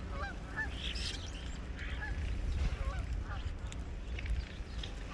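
Birds calling: a series of short, hooked calls repeated every second or so, over a steady low rumble.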